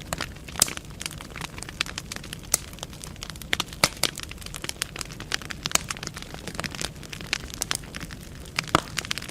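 Wood fire burning in a fireplace: irregular sharp pops and crackles from the burning logs over a steady low hiss of the flames.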